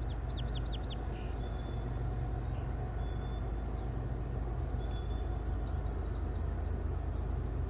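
Diesel freight locomotives running with a steady low rumble. A small bird gives two quick runs of high, downward-slurred chirps, one at the start and one about six seconds in.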